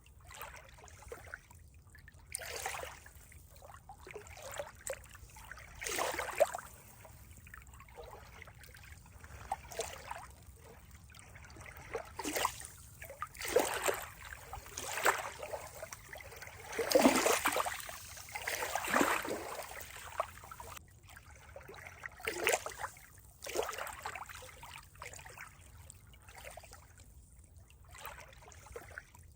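Water trickling and splashing in irregular surges every second or two, loudest about halfway through.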